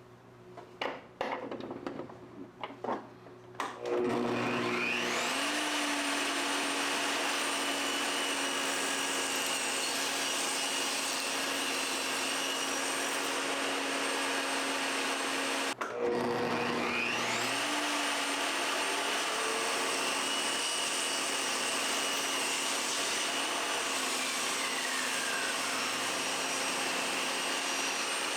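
Electric power tool cutting grooves in wood. After a few knocks of handling, its motor spins up about four seconds in and runs at a steady high hum. It stops briefly around the middle, then spins up again and keeps running.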